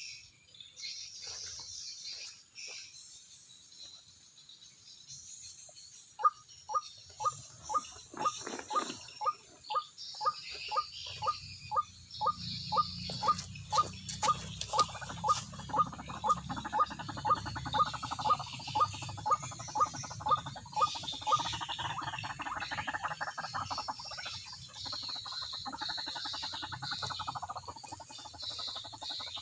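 White-breasted waterhen (ruak-ruak) calling: a long run of repeated short notes, about two a second, each dropping in pitch, growing louder and then running into a denser jumble of calls near the end.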